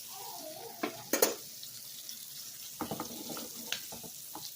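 Breaded shrimp frying in hot oil with a steady sizzle, broken by sharp clicks and knocks of a utensil moving them in the pan about a second in and again in a run about three seconds in.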